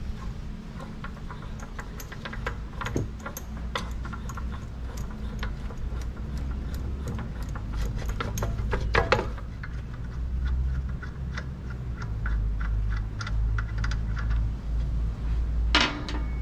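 Metal tools and parts clinking and clicking as they are handled during hands-on car repair work, with a louder clatter about nine seconds in and again near the end, over a low steady hum.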